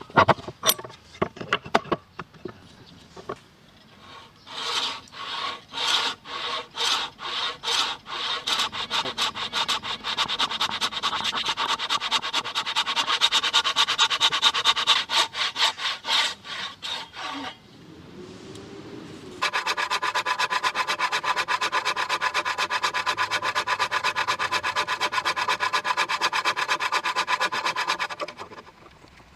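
A hand tool rubbing across wood in rapid back-and-forth strokes. The strokes start a few seconds in and get faster, pause briefly, then run on at a steady fast pace until shortly before the end.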